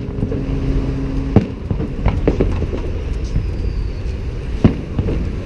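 Fireworks salute: several sharp bangs of bursting shells, the loudest about four and a half seconds in, over a steady low rumble. A steady low hum with several pitches cuts off about a second and a half in.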